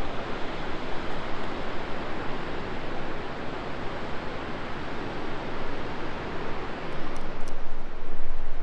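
Steady rushing water of a fast river through rapids and falls, an even, unbroken noise, with wind rumbling on the microphone growing stronger near the end.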